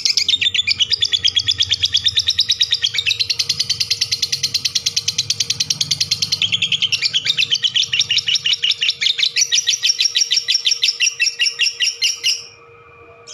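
Lovebird ngekek: one long, unbroken run of rapid, shrill chattering notes, several a second, that stops abruptly near the end.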